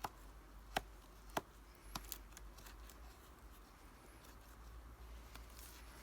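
Wood fire crackling: a few sharp, irregular pops in the first couple of seconds, then only faint ticks over a low hum.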